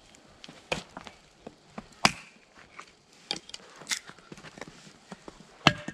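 Firewood being handled, giving irregular sharp wooden knocks and clicks. The loudest comes about two seconds in, with a quick run of them about a second later.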